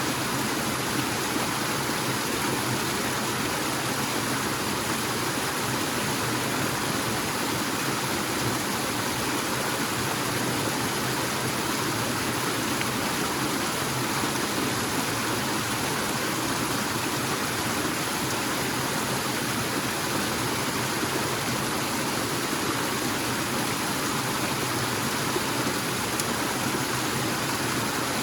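Forest waterfall: water falling and rushing in a steady, even wash of noise.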